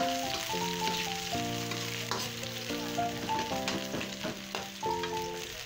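Onion rings sizzling in hot cooking oil in an aluminium pan, with a metal spoon scraping and tapping the pan now and then as they are stirred. Background music with a simple stepping melody plays over it.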